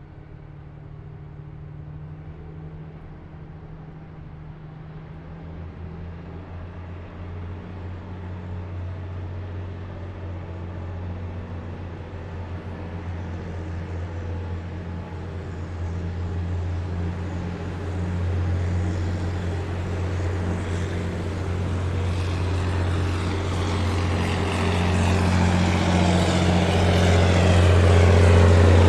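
Heavy military vehicles approaching in a column, their engines a low steady drone that grows steadily louder, with a rushing road noise building over the last several seconds as they draw near.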